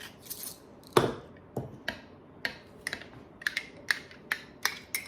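Kitchen utensils clicking and tapping against a dish, with one louder knock about a second in, then a quicker run of light clicks.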